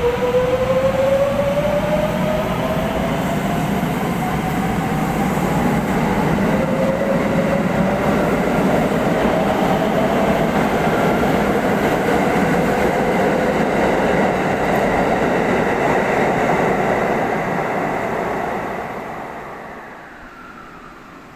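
Electric train accelerating away, its motor whine rising in pitch in steps over the rumble of the cars, then fading out near the end as it leaves.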